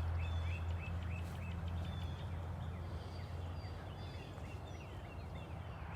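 Small birds chirping rapidly, short repeated chirps several a second, over a steady low hum.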